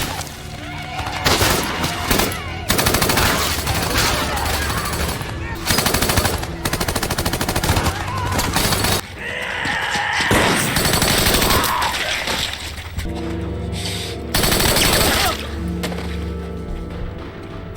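Movie battle sound: dense WWII-era small-arms fire, rifles and machine guns shooting in rapid overlapping bursts. A film score with held notes runs underneath, plainest in the last few seconds.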